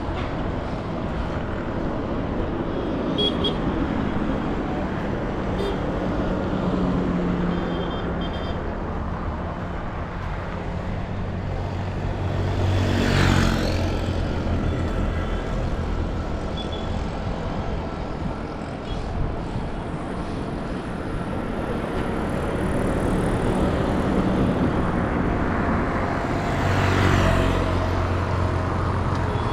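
Street traffic: a steady rumble of engines and tyres, with a vehicle passing close about 13 seconds in and another near the end.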